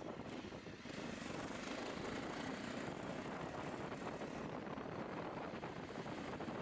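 Faint, steady running noise of a moving vehicle, an even engine and road rumble with no distinct events.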